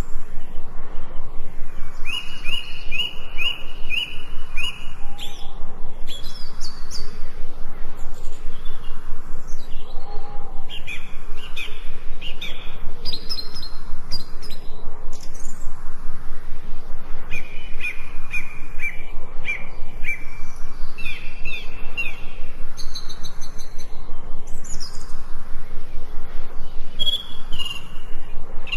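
Several forest birds singing together. One repeats runs of short, evenly spaced notes, while others add higher calls and thin trills.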